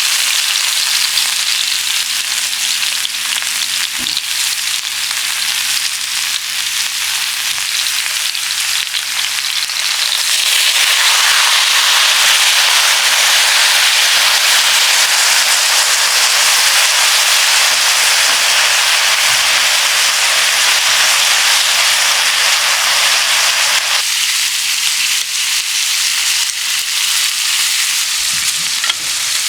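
Food frying in hot fat, a steady sizzle with spattering crackles. The sizzle grows louder about ten seconds in and eases back near the end.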